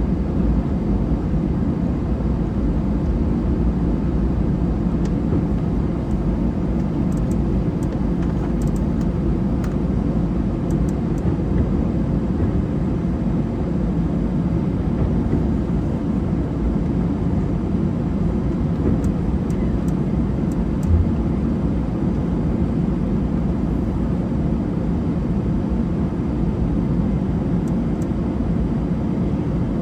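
Airliner cabin noise from inside the cabin: the jet engines and airflow make a steady, deep rumble that holds level throughout. There is one short low bump about two-thirds of the way through.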